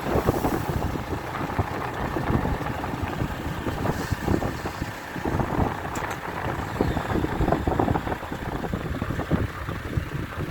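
A heavy engine running steadily, with wind buffeting the microphone.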